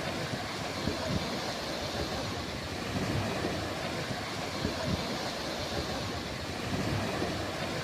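Sea surf washing steadily, with wind buffeting the microphone in irregular low rumbles.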